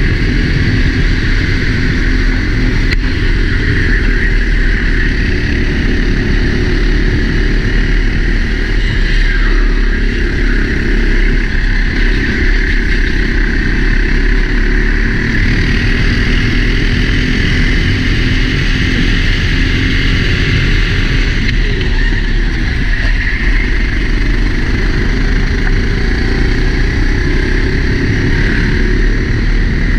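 Four-stroke Sodi racing kart engine running steadily under load, heard from a helmet-mounted camera with constant wind noise over it.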